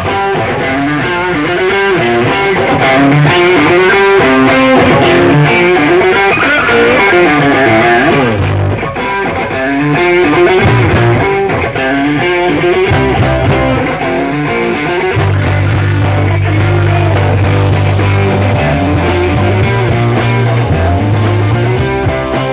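Rock music with a bending electric guitar lead over bass guitar; the bass line grows heavier about two-thirds of the way in.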